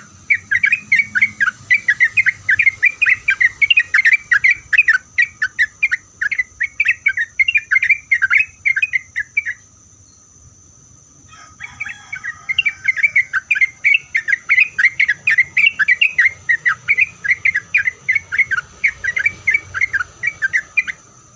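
Yellow-vented bulbul (trucuk) singing a long run of loud, bubbly warbled notes, about three a second. It breaks off for about two seconds near the middle, then takes up the song again.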